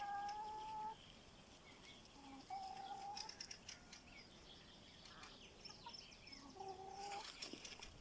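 Chickens in a flock giving three faint, drawn-out, steady-pitched calls spaced a few seconds apart, with quieter high chirping between them.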